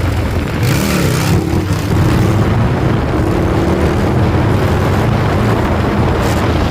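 Motorcycle engines running and revving, with one engine's pitch slowly climbing. A brief rush of noise comes about a second in.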